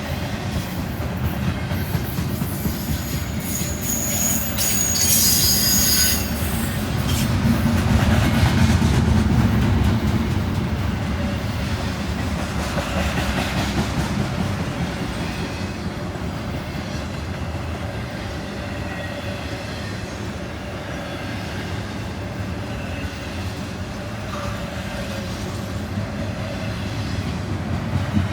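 Intermodal freight train rolling past: a steady rumble of steel wheels on rail, with a high wheel squeal about four to six seconds in.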